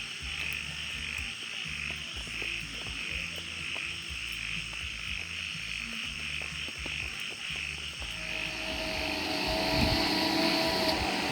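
Pulsing chorus of frogs calling about three times a second, over faint background music with a low beat. About eight seconds in, a steady machine whir with a hum sets in and grows louder.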